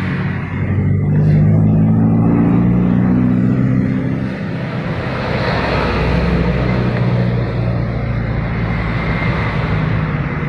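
An engine running, its pitch climbing as it revs from about a second in, then easing back and holding at a steady speed.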